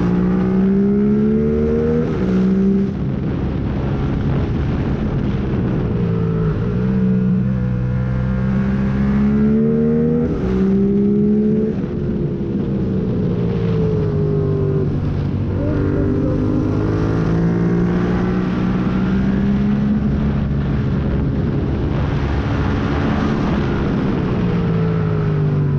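Yamaha MT-07 parallel-twin engine through a full MIVV exhaust with the catalyst removed and no dB killer, pulling hard and then backing off over and over: the pitch climbs, drops at each shift or closed throttle, and climbs again several times through the bends.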